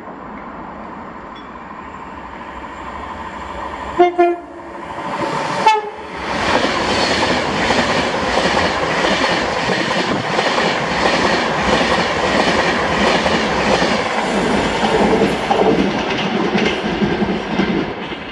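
Class 390 Pendolino electric train sounding a two-note horn about four seconds in, a lower blast then a higher one. It then runs past along the platform with a loud rush and a rhythmic clatter of wheels over the rail joints, fading near the end.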